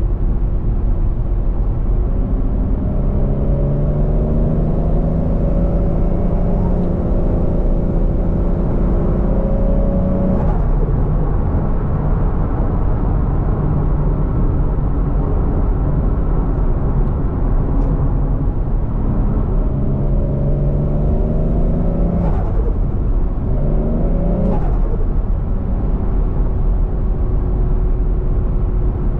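Turbocharged 1JZ-GTE VVTi inline-six in a Scion FR-S, driven under a steady low drone. It accelerates twice, its pitch climbing for several seconds each time, then gives a short third burst. Each lift-off cuts off suddenly with a brief flutter from the turbo.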